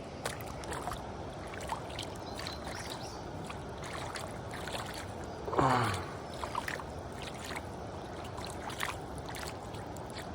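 River rapids rushing steadily, with faint small splashes and trickles of water. About halfway through there is a brief low vocal sound that falls in pitch.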